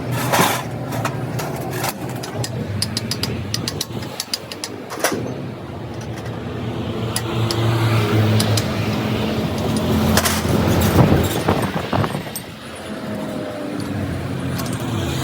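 Irregular sharp clicks and knocks, like tools on metal, over the steady hum of an engine running.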